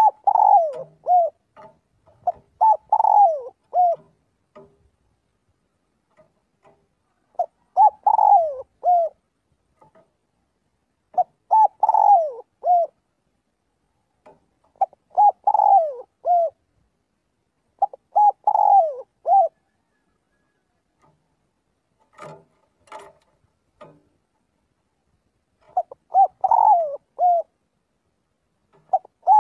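Spotted dove cooing its territorial call: a short phrase of a few notes, the middle one longer and falling, repeated every three to four seconds. The calls pause for several seconds in the later part, where a few faint clicks are heard, then resume near the end.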